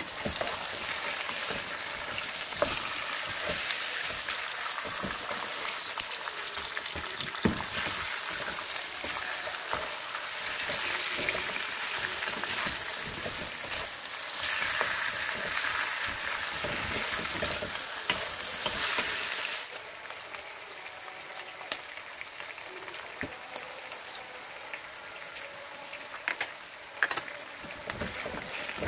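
Vegetable slices frying in hot oil in a karahi: a steady crackling sizzle with occasional knocks of a wooden spatula against the pan. The sizzle drops noticeably quieter about two-thirds of the way through.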